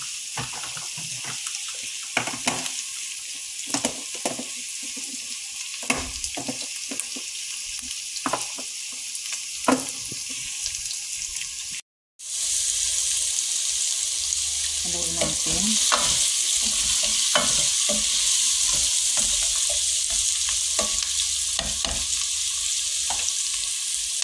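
Diced onion and squash chunks sizzling in hot oil in a nonstick pot, with scattered clicks of a utensil stirring against the pan. After a short break about halfway through, the sizzle is louder.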